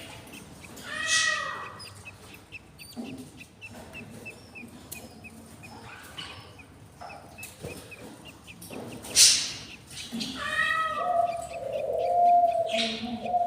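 Budgies calling: a run of short, regular high peeps, then louder, sharper chirps and chattering calls in the second half.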